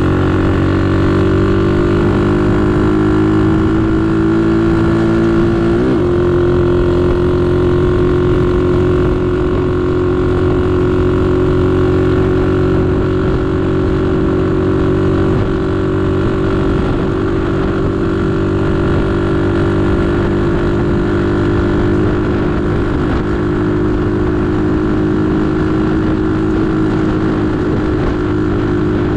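A 125cc pit bike's single-cylinder engine running under way at a fairly steady pace, heard from the rider's chest, with a brief change in pitch about six seconds in before it settles and holds steady.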